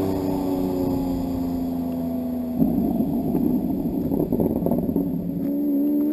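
Lamborghini supercar engines pulling away up the road: a steady engine note sinking slowly in pitch breaks about two and a half seconds in into a rough, uneven rumble, and near the end the note rises again as an engine revs up.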